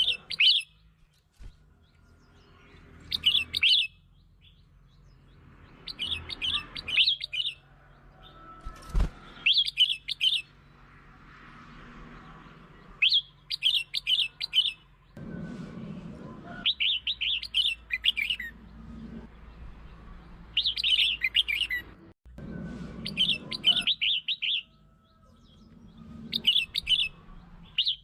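Red-whiskered bulbul song: short bursts of quick, chirpy notes repeated every couple of seconds.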